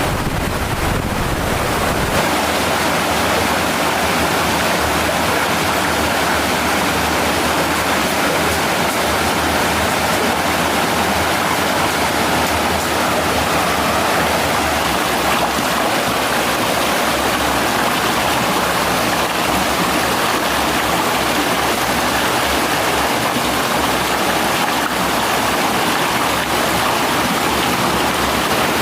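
Mountain stream water rushing steadily, with a low rumble of wind on the microphone that drops away about two seconds in.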